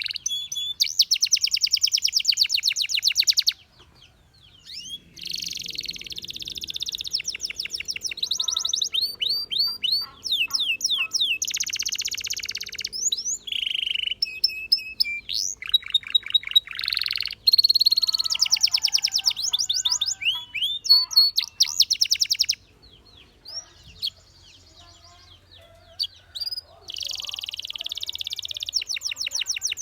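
Canary singing: long runs of rapid high trills mixed with quick rising and falling whistled notes. The song stops briefly about four seconds in and again for a few seconds after about twenty-two seconds.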